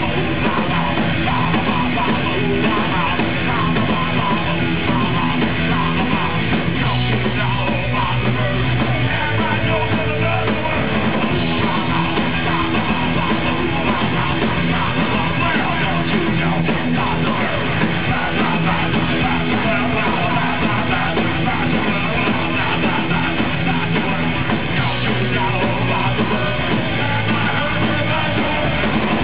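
Punk rock band playing live, loud and continuous, with bass, guitars and drums, in a stretch of the song with few clear sung words.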